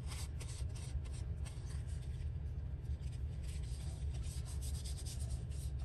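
Paper scrap being pressed and rubbed down by hand onto a glued board: a run of irregular soft scratchy rustles that thin out near the middle, over a steady low hum.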